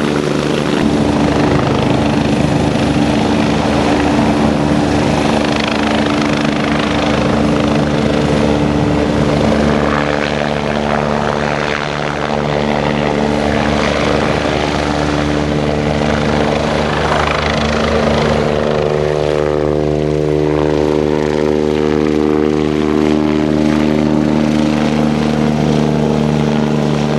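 Eurocopter EC145 twin-turbine helicopter running steadily, its rotor and turbines giving a continuous multi-toned drone. The rushing noise over it eases in the last several seconds while the drone holds.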